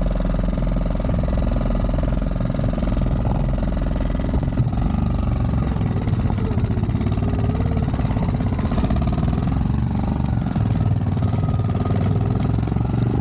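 Small Dax minibike engine running continuously, its pitch wavering up and down as the revs change.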